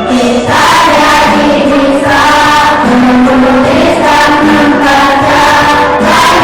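School choir singing, holding sustained notes that change every second or so.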